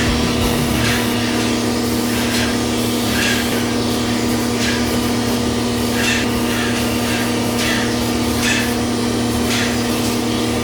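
Paint spray gun hissing in short repeated passes, about one every second and a half, as epoxy primer is sprayed, over a steady mechanical hum.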